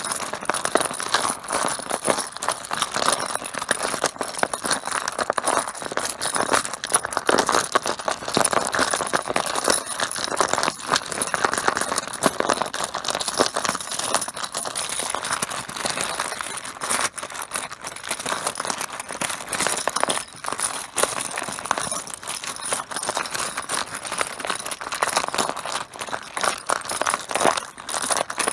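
Mahjong tiles clattering together in a dense, continuous stream of small clicks and knocks.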